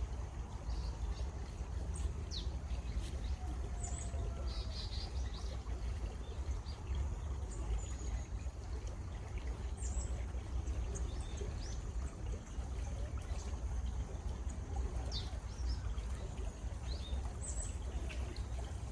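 A stream flowing steadily, with small birds chirping in short, scattered calls over it.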